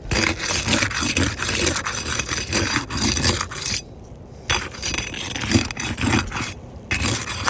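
Steel shingle bar scraping and prying under three-tab asphalt shingles, breaking their sealed glue strips, in repeated rough strokes with a short pause about four seconds in.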